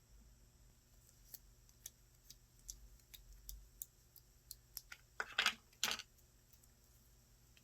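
Slime being handled by hand: scattered small sharp clicks and pops, then two louder, longer sounds about five and six seconds in.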